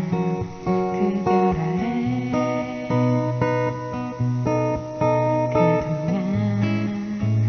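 Acoustic guitar strumming chords in a steady rhythm, with low bass notes changing every second or two.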